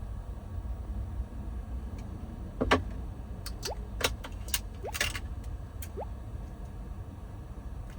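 A sharp knock, then a quick run of lighter clicks and taps, over a steady low rumble.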